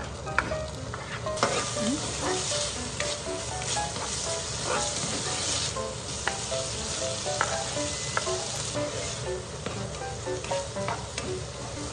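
Diced bacon and chopped mushrooms sizzling in a hot frying pan while being stirred with a spatula, with small clicks and scrapes of the spatula against the pan. The sizzle swells about a second and a half in and then stays steady.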